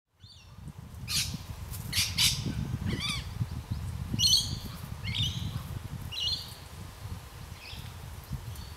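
A bird giving a series of short, harsh, squawking calls, about one a second, over a low steady rumble.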